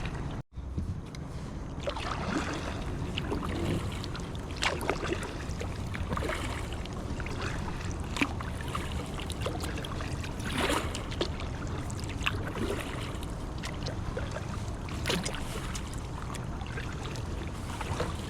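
Kayak paddle strokes dipping and splashing in the water, one every couple of seconds, over a steady low rumble.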